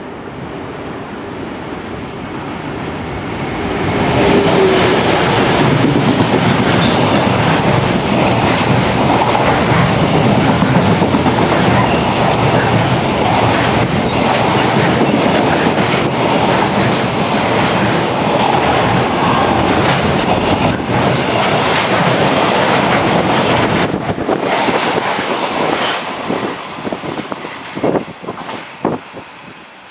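Container freight train passing. The noise builds over the first few seconds as it approaches, then holds as a loud steady rumble and clickety-clack of wagon wheels over rail joints. Near the end a few separate wheel clicks are heard as the last wagon goes by, and the sound fades.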